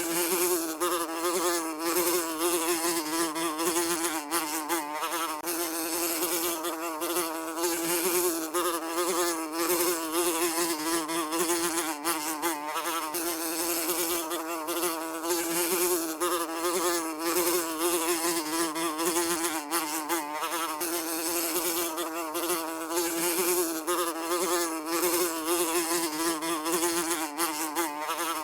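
Housefly buzzing continuously, a steady drone around a low hum whose pitch wavers slightly as the wingbeat changes.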